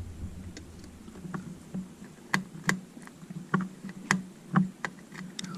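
A screwdriver and tiny screws clicking and tapping against a small plastic drone body: about a dozen short, irregular clicks as the screws are fiddled into place.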